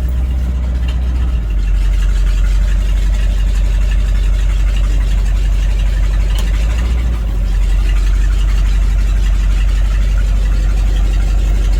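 Engine of a 1982 Chevrolet square-body ambulance running with a deep, steady rumble, its exhaust missing or hanging loose. It grows louder about a second and a half in, dips briefly around seven seconds, then picks back up.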